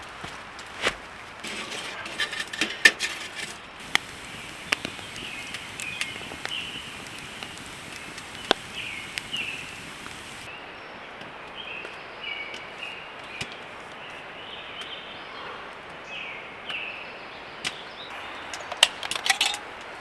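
Irregular sharp snaps and clicks of wood as a campfire is being started, a few of them loud, with a bird's short chirps repeating in the background through the middle of the stretch.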